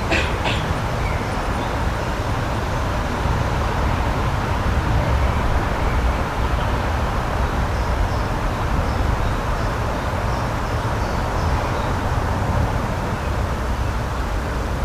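Steady rushing outdoor ambience with a deep rumble underneath. A short high bird call comes right at the start, and faint high chirps come later.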